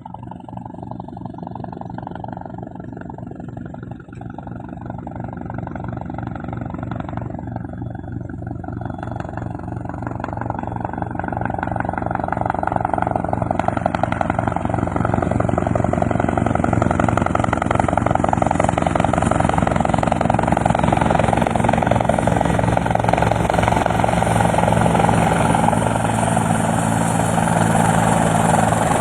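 Helicopter rotor chop and turbine whine, growing louder over about the first dozen seconds and then holding steady.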